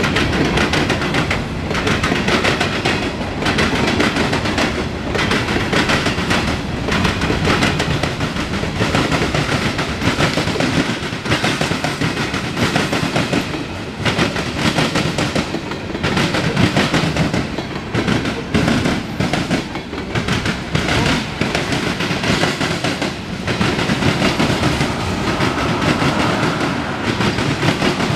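Freight cars of a passing freight train, covered hoppers then tank cars, rolling by close at hand: a steady rumble of steel wheels on rail with rapid clickety-clack as the wheels cross rail joints.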